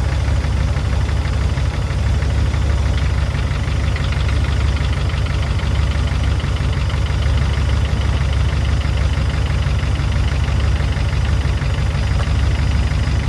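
P38 Range Rover engine idling steadily as it warms up, with a fast ticking from the lifters over the low running sound: the sign of a sticking valve or lifter.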